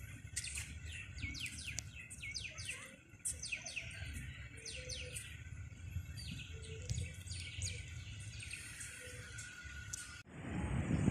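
Small birds chirping in quick, short, falling notes, many calls overlapping, over a steady low background rumble. About ten seconds in the chirping cuts off abruptly and a louder low rumble takes over.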